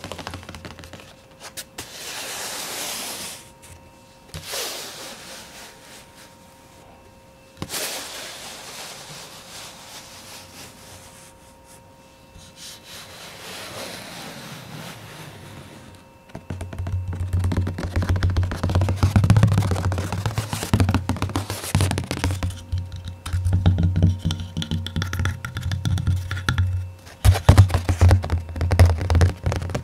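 Close-miked ASMR trigger sounds: soft swishing swells with pauses through the first half, then from about halfway fast, dense tapping with deep thumps.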